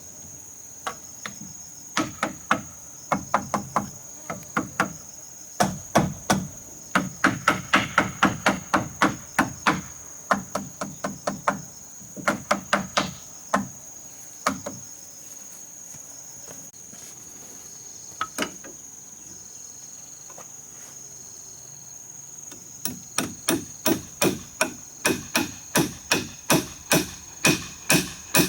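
Hammer striking wood in several runs of blows, about three a second, with pauses of a few seconds in between. Insects keep up a steady high-pitched buzz throughout.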